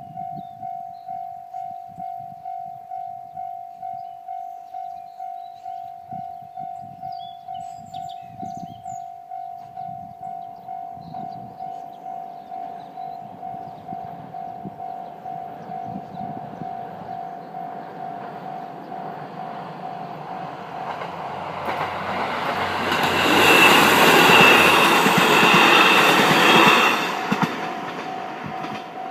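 Japanese level-crossing warning bell ringing steadily at about two strikes a second while a two-car train of KiHa 54 and KiHa 40 diesel railcars approaches and runs over the crossing. The train grows louder from about ten seconds in, is loudest for a few seconds near the end, then fades, and the bell keeps ringing.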